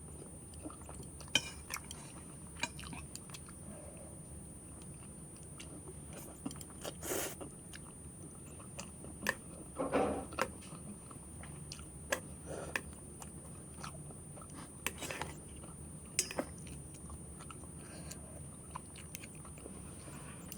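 A person chewing and biting a meal of Korean spicy noodles and rice balls, with scattered small clicks and a few louder wet mouth sounds every second or two.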